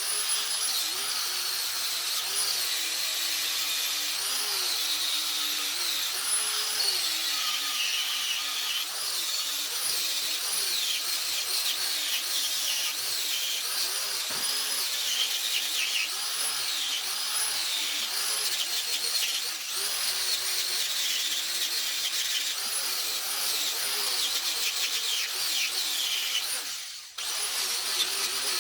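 Handheld power tool running continuously while cleaning the AMC Model 20 rear axle, its pitch dipping and rising again and again as it is pressed against the work. Near the end it winds down and stops for a moment, then starts again.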